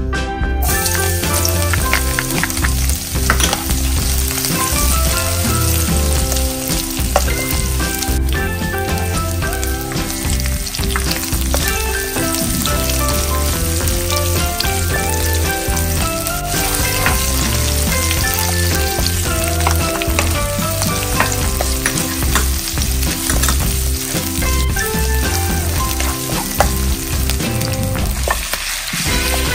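Minced garlic and sliced onion sizzling in hot oil in a nonstick wok, stirred with a spatula. Near the end, raw chicken wings and drumettes go into the pan.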